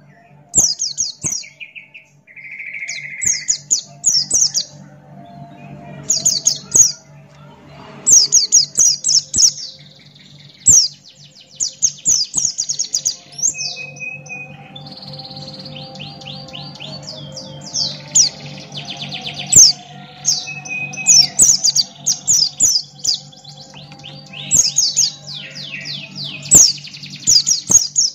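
Pleci buxtoni white-eye singing continuously in its long 'ngalas' style: rapid high, chirping trills in quick phrases separated by short gaps. A faint steady low hum runs underneath.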